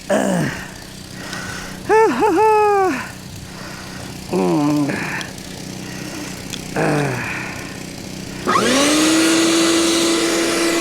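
Gasoline snowblower engine surging briefly four times, its pitch falling away after each burst. About eight and a half seconds in it revs up and holds a steady running note.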